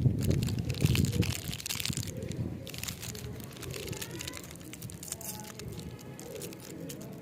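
Crinkling and rustling with many scattered clicks, loudest in the first second and a half and then softer.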